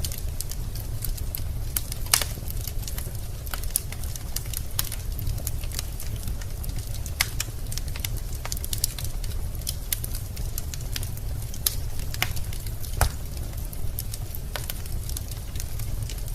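Wood fire burning in a fireplace: irregular sharp crackles and pops from the logs over a steady low rumble of the flames, with louder pops about two seconds in and near thirteen seconds.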